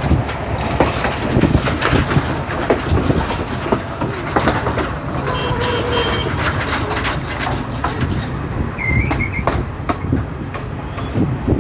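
Passenger train running along the rails, heard from on board: a steady loud rumble with the wheels clattering over rail joints and a few brief high squeaks in the middle.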